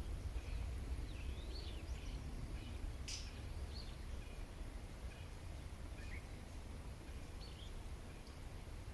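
Wild birds calling: short, scattered chirps and quick up-and-down whistled notes, busiest in the first few seconds, over a steady low outdoor rumble.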